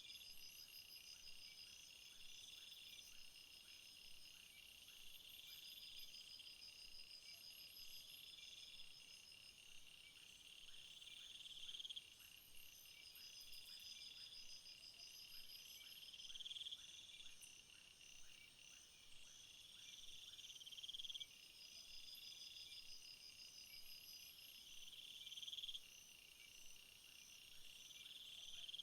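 Faint chorus of crickets chirping in a summer field. High pulsed trills overlap, and one insect repeats a buzzing phrase about every four seconds that swells and then stops suddenly.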